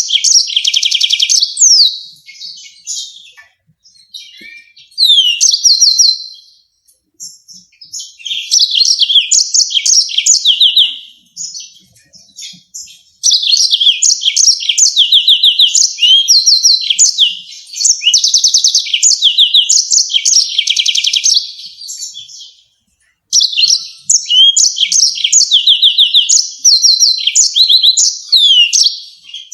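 Yellow-fronted canary singing: loud bursts of fast, high twittering trills and rapidly repeated notes, some phrases a second or two long and one running about nine seconds, broken by short pauses.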